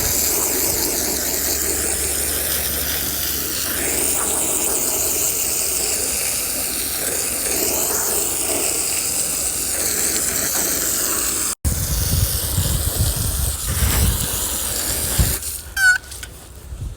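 Garden hose spray nozzle hissing steadily as it washes down a pool filter. It cuts off suddenly about two-thirds of the way through, followed by lower, uneven rumbling splashes.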